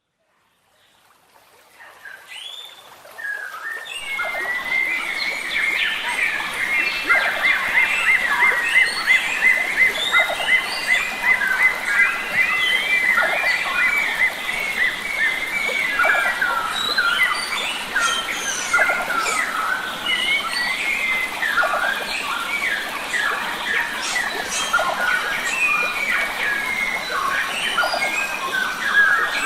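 Chorus of many wild forest birds singing at once, with dense overlapping chirps and whistles over a faint rushing of water. It fades in from silence over the first few seconds.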